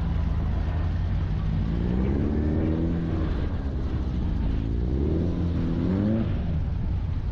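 An engine running over a steady low rumble, its pitch rising and falling twice as it is revved and eased off.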